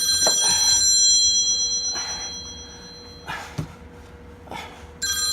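Telephone ringing: one ring dies away over the first three seconds, then a few faint knocks, and the next ring starts near the end.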